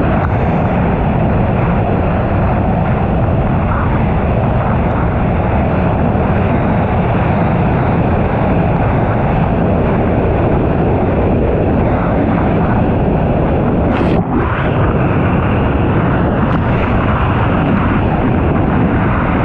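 1999 Sea-Doo XPL's two-stroke engine running hard under way, a steady loud rush of engine and water, with a brief dip about two-thirds of the way through.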